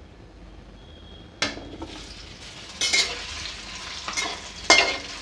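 Gatta (gram-flour dumpling) pieces go into hot mustard oil in a kadhai and sizzle up sharply about a second and a half in. The frying sizzle then carries on, with several sharp strokes from a spatula stirring and scraping the pieces in the pan.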